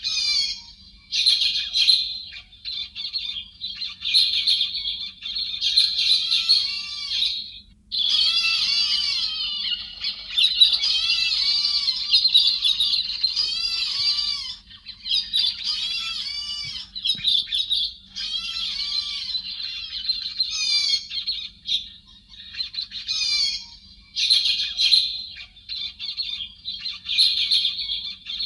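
A flock of chim héc xoan, the thrush-type bird of Vietnamese bird trapping, calling all together: many overlapping short, arched whistled and squawky notes in a dense chatter, with brief lulls between bouts, as played on a lure track to draw a flock.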